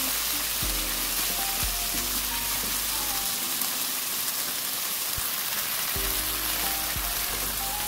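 Marinated beef strips sizzling steadily in hot oil in a wok as they are stir-fried, with background music.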